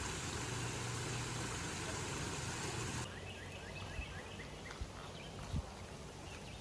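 Steady car road noise with a low hum for about three seconds. It then cuts to quiet outdoor ambience, where a bird gives a quick run of short chirps and there are a few soft knocks.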